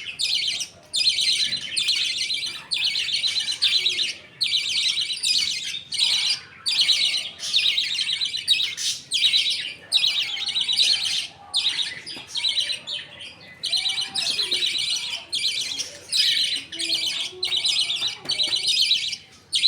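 A colony of budgerigars chattering and chirping continuously in rapid warbling phrases with short breaks.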